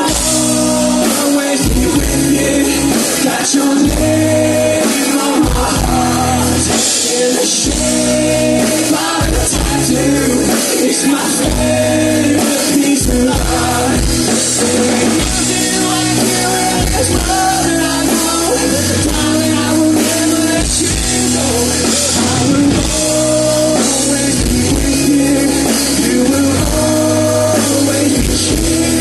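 Rock band playing live: a sung vocal line over drums, bass and guitars.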